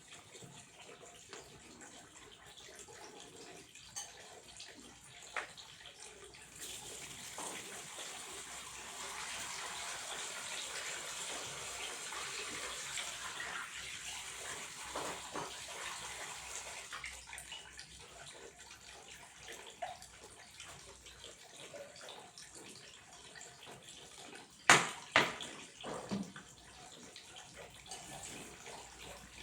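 Flowing water, growing louder about six seconds in and easing off after the middle. Two sharp knocks near the end.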